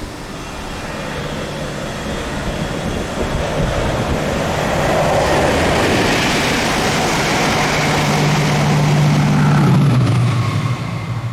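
Diesel train passing close by at speed, growing loud and then fading, its engine note dropping in pitch as it goes past near the end.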